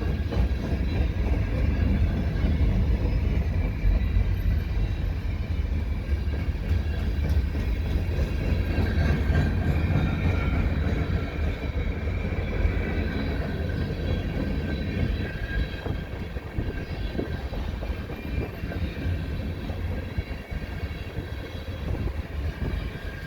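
Freight train rolling past: a steady rumble of steel wheels on the rails with a faint high ringing above it, no horn.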